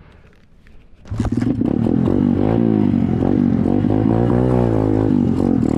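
SSR 125 dirt bike's single-cylinder four-stroke engine starting up about a second in, then running and being revved up and down.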